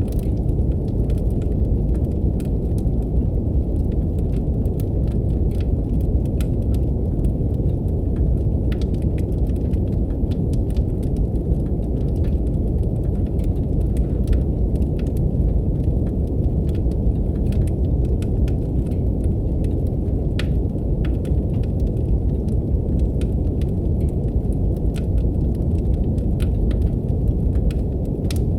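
Steady brown noise, a deep even hiss with nothing in the upper range, with a fireplace fire crackling over it in scattered sharp pops and clicks.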